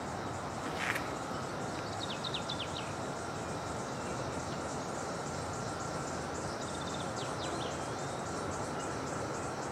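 Woodland ambience: a steady rushing background with birds giving two short runs of quick, falling chirps, and faint insects buzzing high up. There is a single click about a second in.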